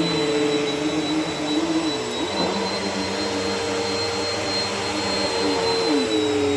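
Bissell vacuum cleaner running steadily: a motor drone with a high whine on top. Its pitch dips briefly about two seconds in and drops slightly near the end.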